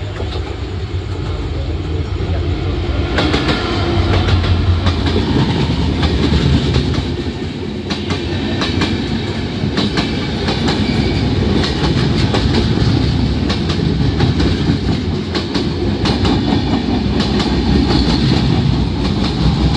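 An express train of LHB passenger coaches passes at speed on the adjacent track, close by. From about three seconds in its wheels clatter over the rail joints in a rapid, unbroken run of clicks over a steady rushing noise, after a low drone at the start.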